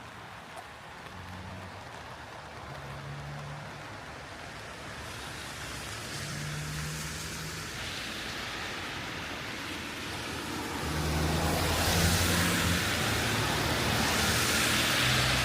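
A vehicle approaching on a wet road: the hiss of its tyres on the wet surface grows from about five seconds in and is loudest near the end.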